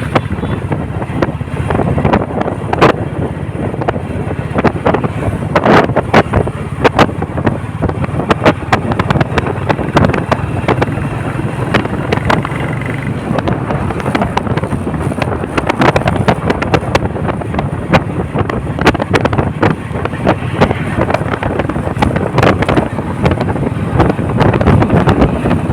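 Royal Enfield Bullet single-cylinder motorcycle running on the move, with heavy wind buffeting the microphone in frequent sharp gusts over the engine.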